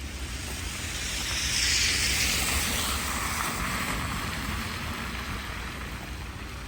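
A vehicle passing on a slushy street: the hiss of its tyres through wet snow swells over the first two seconds, then fades away by about five seconds in, over a steady low rumble.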